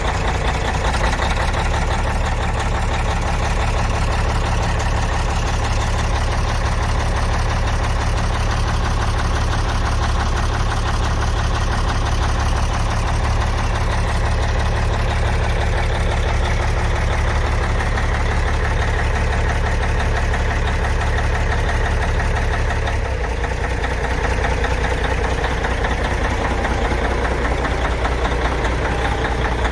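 Caterpillar 3406E inline-six diesel in a Kenworth truck idling steadily after a cold start in freezing weather, with an even diesel clatter. About 23 seconds in, the deep low hum drops slightly as the idle settles.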